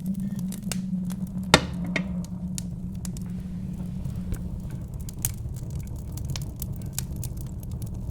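Wood fire crackling, with scattered sharp pops and one louder snap about a second and a half in, over a steady low rumble of wind.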